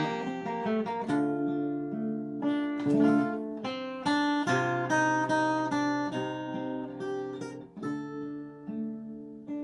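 Acoustic guitar played solo, the instrumental introduction of a ballad, picked and strummed chords with notes ringing over each other.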